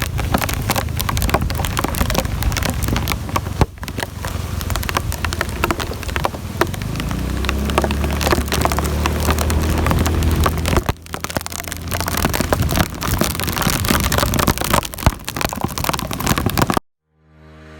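Heavy rain falling, with a dense patter of drops striking close by. A low hum joins it from about seven to eleven seconds in. The rain cuts off suddenly near the end, and music begins to fade in.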